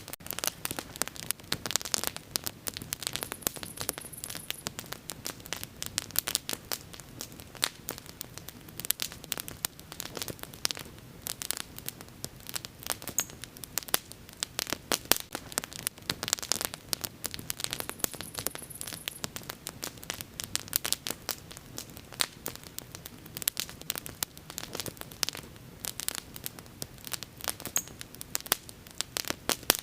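Wood bonfire burning with dense, irregular crackling and popping, over a faint low steady rush of flame. A short high hiss comes twice, early on and past the middle.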